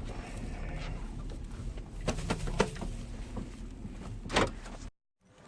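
Steady low rumble of a car with a few sharp clicks and knocks, the loudest shortly before the end; the sound then cuts out abruptly for a moment.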